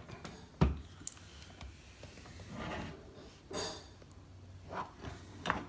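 Hard plastic vacuum-cleaner parts being handled: a knock about half a second in, some rubbing and scraping in the middle, and a few light clicks near the end.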